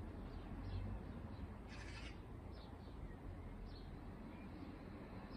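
A small bird chirping repeatedly, short high falling chirps roughly once a second, over a steady low rumble. A brief hiss comes about two seconds in.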